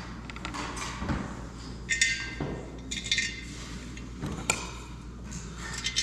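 Metal parts and hand tools clinking and knocking while the exhaust and its new gasket are fitted onto a Husqvarna K960 cut-off saw: a handful of irregular sharp knocks, some ringing briefly.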